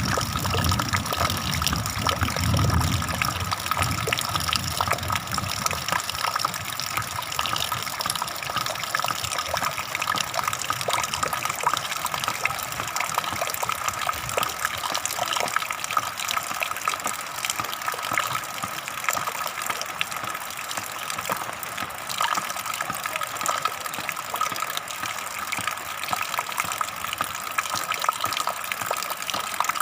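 Flowing water rushing steadily, a constant gushing noise, with a deeper rumble in the first few seconds.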